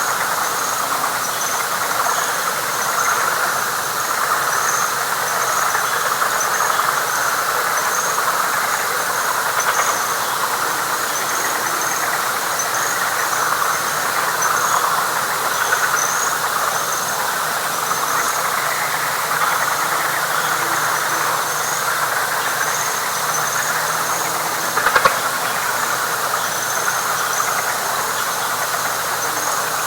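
Dense night chorus of frogs in a wet flatwoods swamp: a steady, unbroken wash of many overlapping calls, with a high chirping call repeating about once a second above it. A single short click about 25 seconds in.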